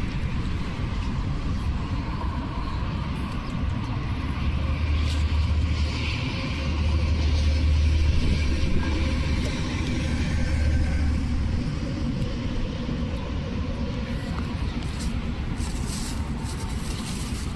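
A road vehicle passing: a low rumble that builds from about four seconds in, is loudest near the middle and fades out a few seconds later, over steady outdoor traffic noise.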